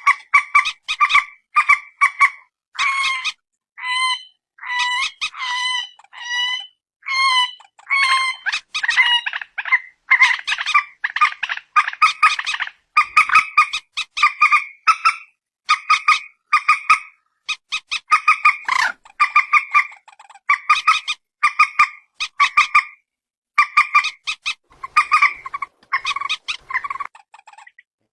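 Calls of the bird known locally as peruk or mandar batu: a long run of short, clipped, harsh notes repeated about two or three times a second, with brief pauses between bouts.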